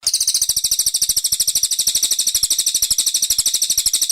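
Brown cililin songbird singing a very fast, even trill of high, sharp notes. The trill starts abruptly and runs steadily without a break.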